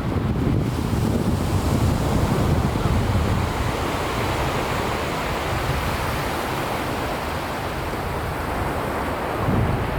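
Sea waves washing onto a beach, with wind buffeting the microphone as a low rumble.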